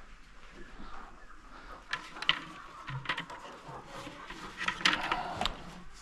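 Chickens clucking faintly in a coop, broken by a few sharp knocks and clatters about two seconds in and again around five seconds.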